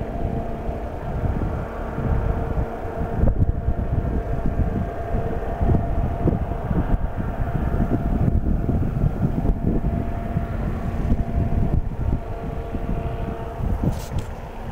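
Strong wind buffeting the microphone in irregular gusts, over the steady hum of an engine running at a constant speed.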